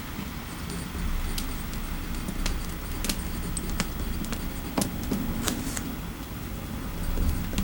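Fireplace crackling: irregular sharp pops, roughly one a second, over a low steady rumble of the fire.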